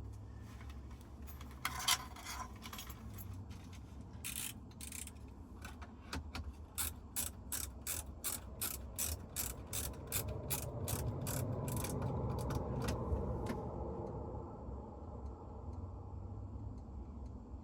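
A ratchet mechanism clicking: a few scattered clicks, then a steady run of about two to three clicks a second for some seven seconds, with a low hum swelling under it midway.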